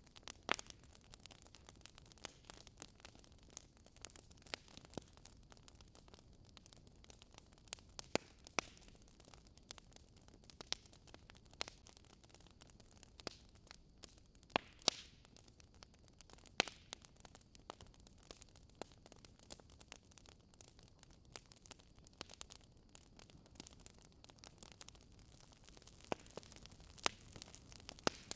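Wood fire crackling in a fireplace: irregular sharp pops and snaps of burning wood, a few louder than the rest, over a faint steady hiss.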